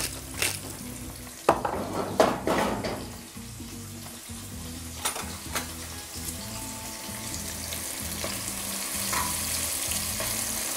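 Onion frying in oil in a non-stick pan, sizzling while it is stirred with a utensil. A few knocks and scrapes against the pan come in the first seconds, and the sizzle gets a little louder toward the end.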